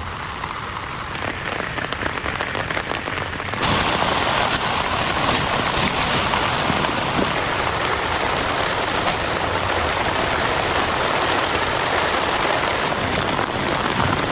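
Heavy rain pouring steadily, a dense patter of drops. It turns abruptly louder and fuller about three and a half seconds in.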